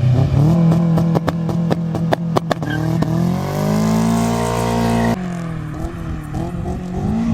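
Car engine running under load, rising in pitch over a couple of seconds and then cut off abruptly about five seconds in, followed by engine sound at a steadier pitch. Sharp clicks are heard throughout.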